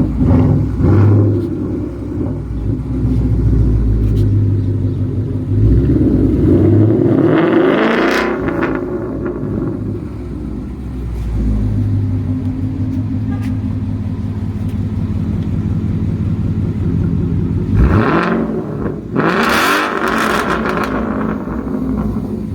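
2016 Ford Mustang GT's 5.0-litre V8 running loud through a straight-piped exhaust with an X-pipe and resonator delete. It revs up hard twice, about seven seconds in and again near eighteen seconds, each time with a rising pitch and a hiss over the engine note.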